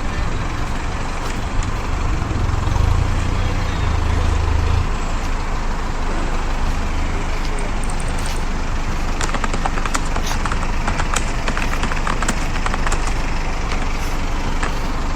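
Tractor engine running hard while towing a tractor stuck in mud, with a heavy low drone that eases about five seconds in. Scattered clicks and knocks come through from about nine seconds in.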